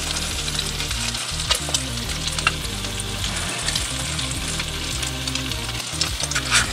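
Egg-and-silverfish fritters (okoy) frying in hot oil in a square pan: a steady sizzle with scattered sharp pops and spits, the loudest near the end.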